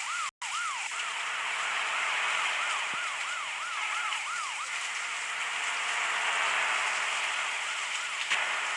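A warbling siren-like tone rising and falling about three times a second over a steady hiss. The tone fades out about halfway through and comes back faintly near the end.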